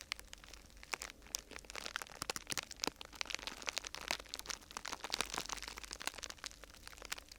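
Close-up crinkling and crackling of a thin sheet material, such as vinyl or paper, being handled and crumpled: a dense, irregular run of small sharp crackles with no rhythm.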